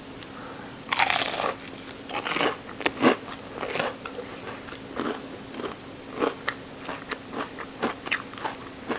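Biting into a crispy fried breaded shrimp, with a loud crunch about a second in, then chewing it with a series of irregular crisp crunches.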